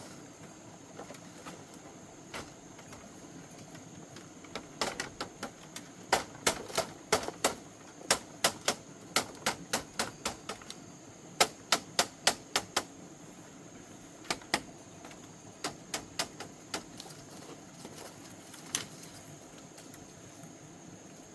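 A run of sharp chopping strikes, about three a second, starting about five seconds in and going on for some eight seconds, then a few scattered strikes.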